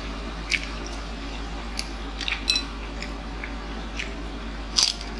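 Close-up chewing and mouth sounds of people eating fried street food: scattered short wet clicks and smacks, a cluster of them near the end, over a steady low hum.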